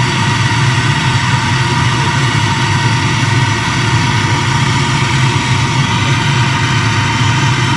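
A steady machine drone with a strong low hum, switched on abruptly just before and running evenly throughout.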